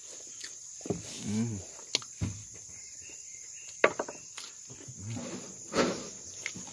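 A man chewing a bite of crisp, batter-fried durian, with sharp mouth clicks and smacks and a few short murmured hums, over a steady high-pitched insect drone.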